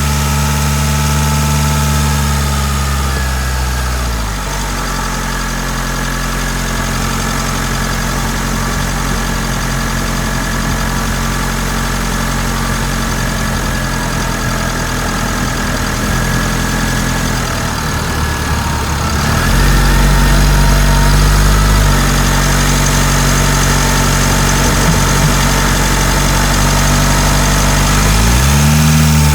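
Mitsubishi Delica D5 diesel engine running near idle, close up. Its speed drops about four seconds in, picks up again after about nineteen seconds, and briefly rises near the end.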